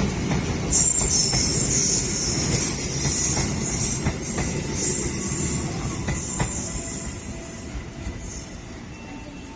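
A train running through a station: high-pitched wheel squeal against the rails starts about a second in and lasts several seconds over a low rumble, with a few clacks from the wheels, and the sound fades away as the train moves off.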